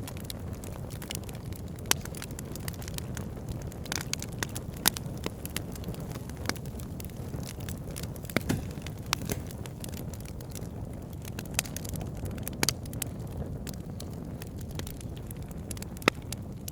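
Wood campfire burning, with frequent sharp crackles and pops, a few louder than the rest, over a steady low rumble.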